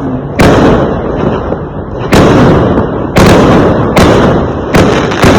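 Fireworks exploding: a series of loud bangs, about six, at uneven intervals, each followed by a low rumbling tail that fades before the next one.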